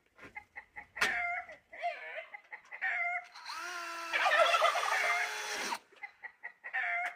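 Poultry calling and clucking in short pitched calls, with a louder stretch of several overlapping calls in the middle. A single sharp knock comes about a second in.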